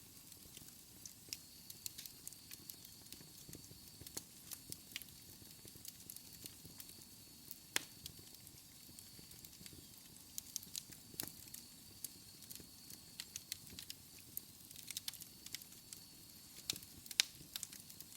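Wood fire in a fireplace crackling, with irregular snaps and pops. A few sharper pops stand out, the loudest near the end. A faint steady high-pitched tone runs underneath.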